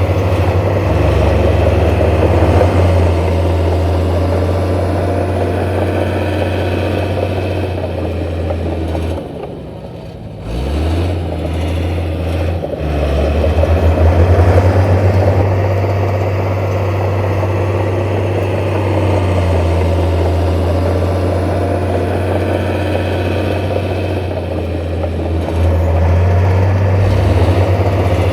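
Heavy diesel engine of earthmoving machinery running under load, with a low steady drone. About nine seconds in it throttles down briefly, then revs back up with a rising pitch and carries on working.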